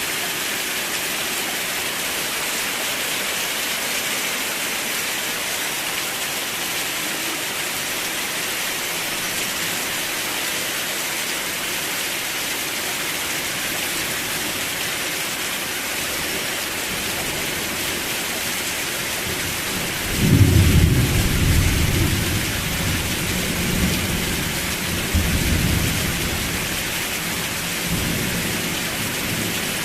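Steady rain falling, with a sudden thunderclap about two-thirds of the way through that rumbles on for several seconds, swells again and dies away.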